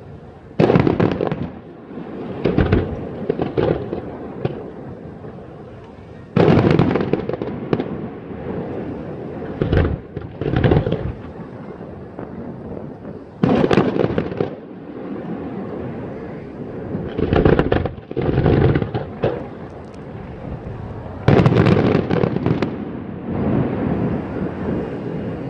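Aerial fireworks shells bursting in clusters: a sudden loud bang about every seven seconds, each followed by several smaller bangs and a fading rumble.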